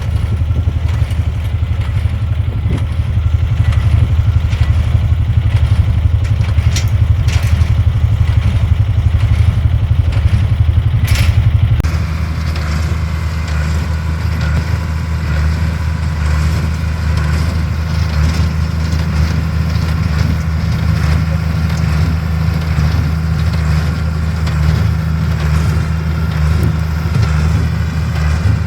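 Tractor engine running steadily under load, a low, even diesel note; about twelve seconds in the engine note shifts abruptly to a slightly different, steadier pitch.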